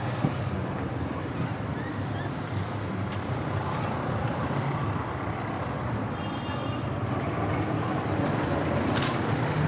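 Busy street ambience: steady traffic noise with people's voices mixed in, and a short faint beep about six seconds in.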